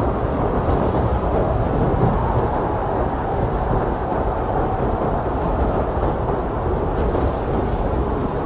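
Strong blizzard wind blowing steadily, a deep, dense rushing noise with no separate gusts or impacts standing out.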